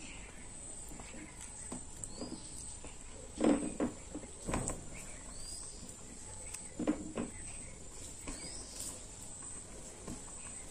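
Eating sounds: a handful of short, separate chewing and mouth noises, loudest about three and a half and seven seconds in, over a steady high-pitched whine.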